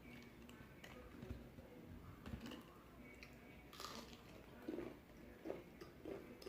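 Faint chewing and crunching of crispy fried chicken, with scattered short crackles and bites and a run of quick chews near the end.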